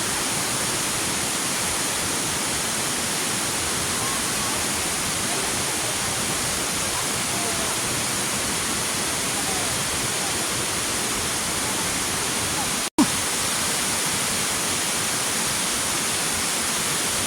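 Waterfall in full rainy-season flow, a steady heavy rush of falling water. The sound cuts out for an instant about thirteen seconds in, then resumes.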